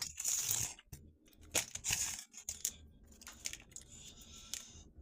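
Dry tamarind pod shells cracking and crinkling as they are peeled off by hand. There are two short crackling bursts in the first two seconds, then fainter clicks and rustles.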